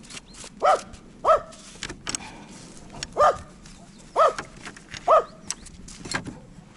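A dog giving five short, high, yelping barks, each rising and falling in pitch, over faint scattered clicks and knocks.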